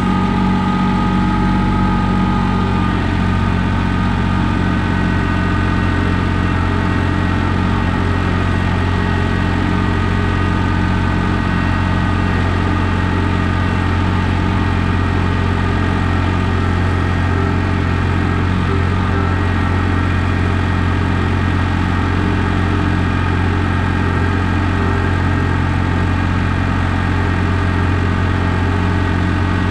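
John Deere 855 compact tractor's three-cylinder diesel engine running steadily at an even speed.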